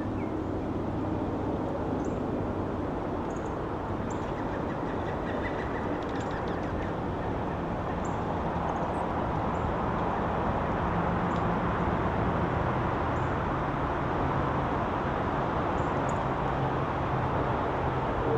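Steady rushing outdoor background noise with a low hum, and faint short high chirps of small birds scattered through it.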